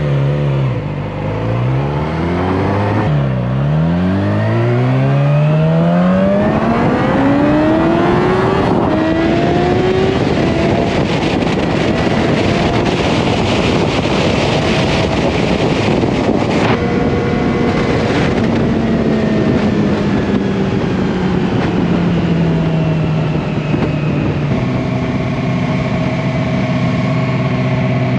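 Motorcycle engine pulling away and accelerating, its pitch rising through short climbs and then one long climb, with wind rushing past. It then holds a steady cruise, eases off with falling pitch past the middle, and settles to a steady note near the end.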